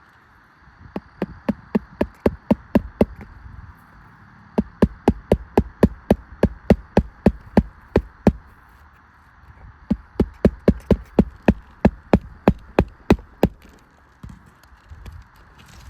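Rapid hammer taps, about four a second, in three runs of several seconds each, over a steady high insect-like hum.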